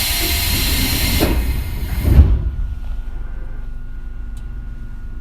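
Keio 7000 series train standing at a station: a loud hiss of air for about two seconds ends in a heavy thump, typical of the passenger doors closing before departure. Then a quieter steady hum of the stopped train.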